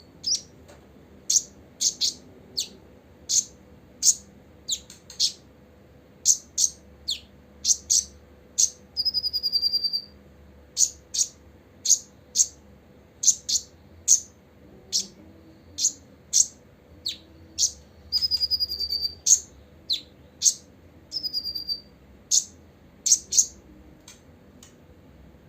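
Copper-throated sunbird calling: a quick series of sharp, high chirps, about two a second, broken three times by a longer trilled note that falls slightly in pitch. The calling stops shortly before the end.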